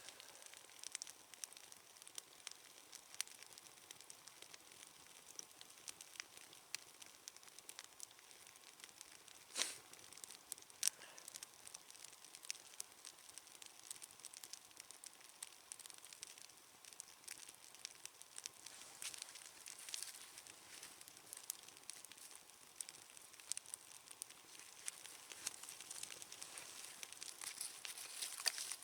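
Small wood campfire crackling faintly, with scattered snaps and two louder pops about ten and eleven seconds in.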